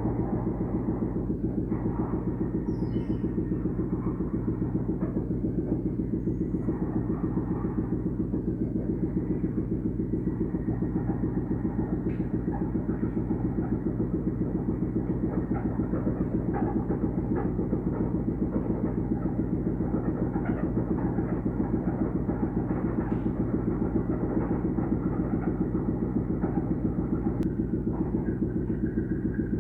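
Steady low mechanical rumble with a fast, even pulse, the sound of running vehicle machinery.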